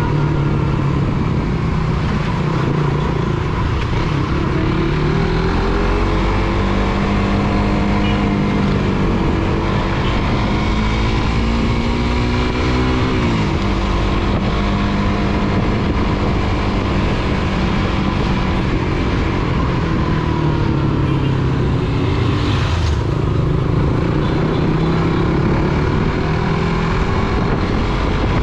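Suzuki GSX-R150 motorcycle's single-cylinder engine under way, its pitch climbing steadily as it accelerates, dropping sharply about halfway through, then climbing again. A steady rush of wind and road noise runs beneath it.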